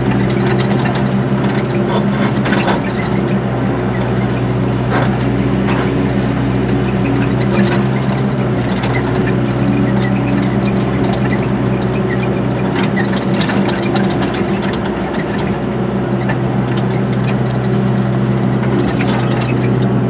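Excavator's diesel engine running steadily under load, with scattered clanks and scrapes from the machine at work.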